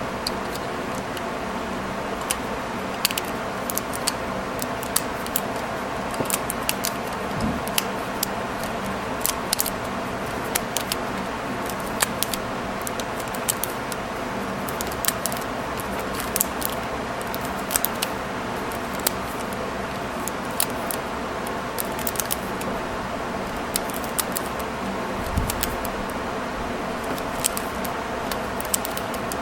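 Irregular small clicks and light metallic clatter, one or two a second, from a metal staple remover being handled and worked during a rubber-band repair, over a steady background hum.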